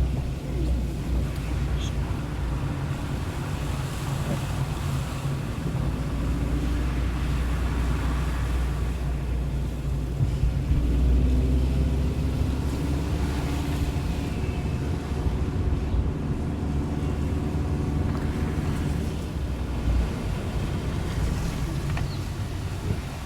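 A motor vehicle's engine running with a steady low rumble over a constant wash of water noise, as a vehicle moves through a flooded street; the rumble fades out about 20 seconds in.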